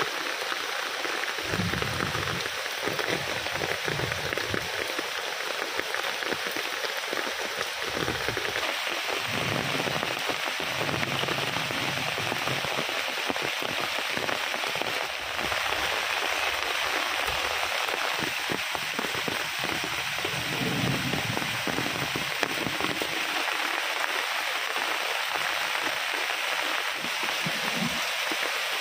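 Heavy rain falling steadily, with a few soft low rumbles now and then.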